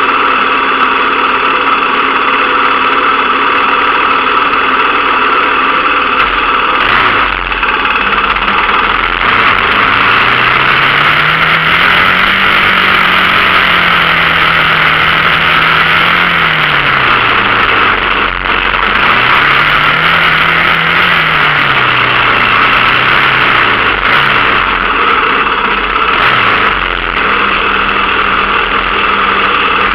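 Dirt bike engine running loudly, its pitch climbing and falling several times as the throttle is opened and closed, with a few brief dips in level.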